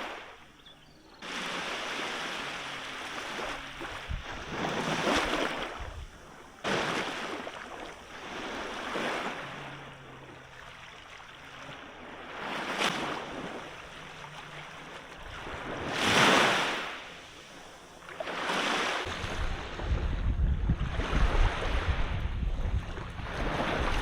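Water washing and surging in swells every few seconds, like waves. Wind buffets the microphone with a low rumble over the last few seconds.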